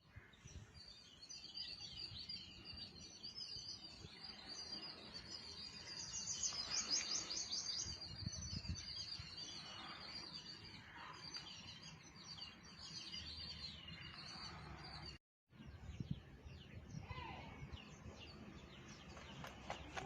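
Birds chirping and twittering in a continuous high-pitched chorus, with a burst of rapid trills a few seconds in. The sound cuts out for a moment about three-quarters of the way through.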